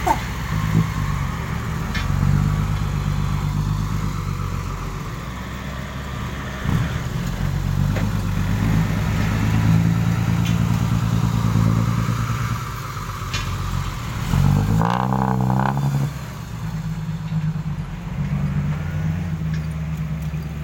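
Six-wheel dump truck engine running steadily at low revs, with a few sharp knocks and a brief rise and fall in engine pitch about fifteen seconds in.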